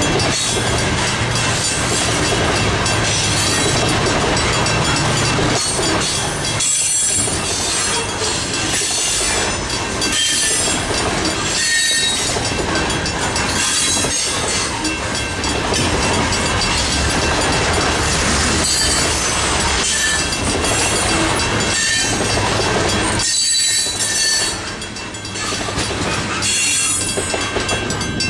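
Freight train cars rolling through a level crossing while the crossing's mechanical bell rings steadily, its electromagnet-driven hammer striking the gong. The train's rumble drops off about 24 seconds in as the last car clears, leaving the bell strokes plainer.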